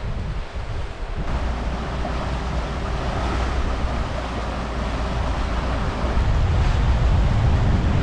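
Wind buffeting the microphone over the rushing of sea water along a sailing yacht's hull as it sails along; louder from about six seconds in.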